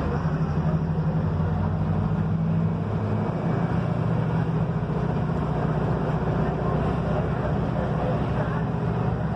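Mercedes-Benz OF-1721 bus engine running under way, a steady low drone with road noise, whose pitch shifts about three seconds in.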